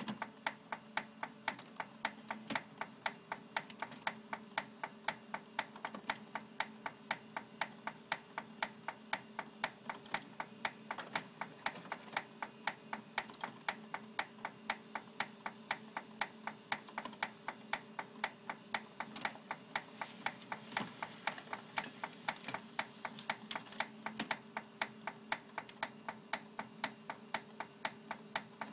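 Xerox 6110 laser printer clicking steadily and rapidly, about three clicks a second, over a low steady motor hum. It is the sound the printer makes while warming up and printing even though its prints come out normal; the owner does not know the cause.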